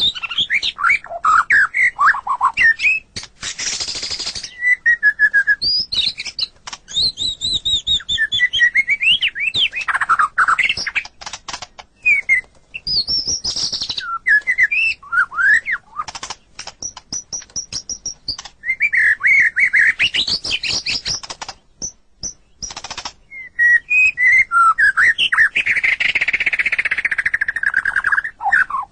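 White-rumped shama (murai batu) singing a long, varied song: clear whistled phrases gliding up and down, broken by harsh buzzy notes and rapid clicking runs.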